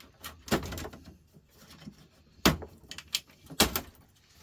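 Knocks and clicks of metal parts and tools being handled while an electric cooker hob is taken apart, the loudest about two and a half seconds in and again about a second later.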